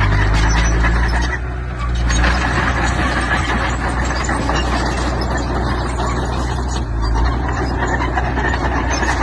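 Diesel engine of heavy construction machinery running steadily with a low drone and a dense mechanical noise over it, easing briefly about a second and a half in.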